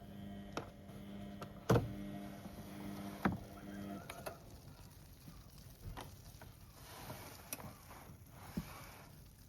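Beko WM74135 washing machine in its wash tumble: the drum motor hums while turning the drum, then stops about four seconds in for the pause between turns. Now and then the heavy wet door mats thud as they drop inside the drum, with water sloshing.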